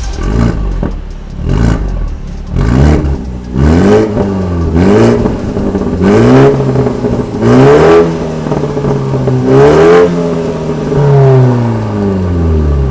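BMW 330Li's B48 turbocharged four-cylinder engine revved again and again through an iPE Innotech stainless performance exhaust: about eight or nine blips, each rising and falling in pitch, some held longer near the top.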